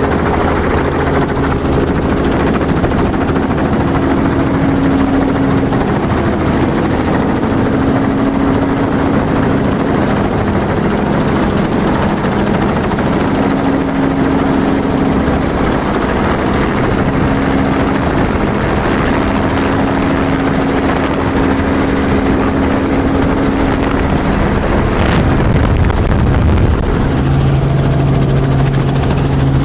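Helicopter engine and rotor noise heard on board in flight: a steady, loud drone with a humming tone underneath that drops lower near the end.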